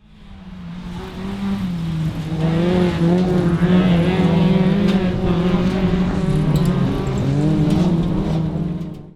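Autograss racing car engine at high revs, growing louder over the first couple of seconds, then running steadily with small rises and dips in pitch as the throttle is worked.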